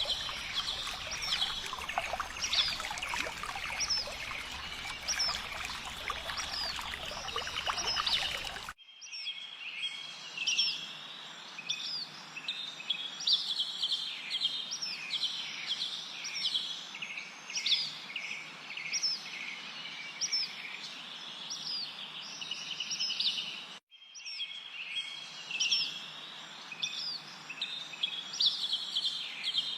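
Many small songbirds chirping and trilling together in a dense, busy chorus of quick high notes. For about the first nine seconds a trickling water hiss runs beneath the birds, then stops abruptly. The chorus breaks off for an instant about 24 seconds in.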